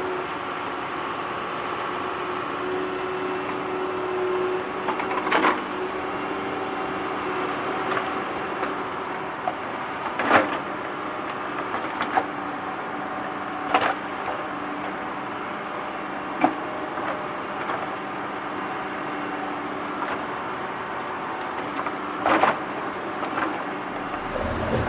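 Small electric motor of a toy tractor whirring steadily, with a handful of sharp plastic clicks spread through.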